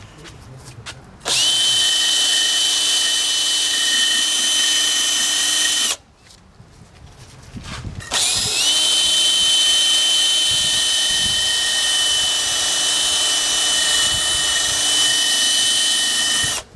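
Handheld power tool running at a steady high whine in two runs, about five seconds and then about eight seconds, with a short stop between; it spins up briefly at the start of the second run.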